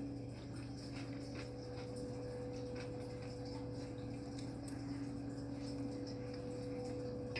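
Faint, irregular clicking of a person chewing food, over a steady electrical hum.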